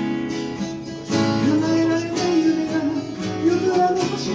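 Acoustic guitar strumming a song accompaniment, with a man's singing voice weaving through it.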